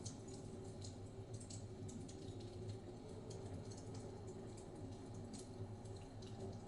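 Wood fire crackling in a fireplace, with many small irregular pops and snaps over a low steady rumble of blizzard wind.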